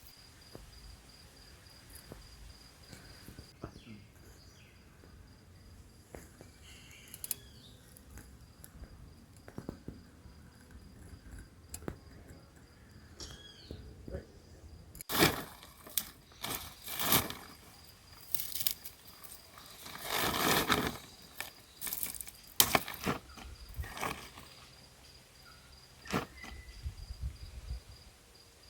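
Insects chirping steadily over quiet outdoor ambience. About halfway through, a series of sharp cracks, knocks and rustles begins, loudest in a noisy burst of about a second near two-thirds of the way.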